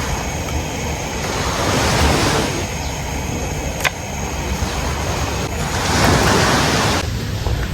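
Sea waves washing onto a beach, a steady surf hiss that swells up twice as waves come in. A single sharp click sounds about four seconds in.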